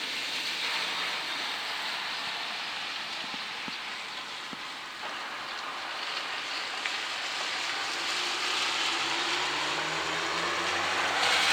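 Steady hiss of rain mixed with wet snow falling. In the last few seconds a low steady hum comes in and grows louder.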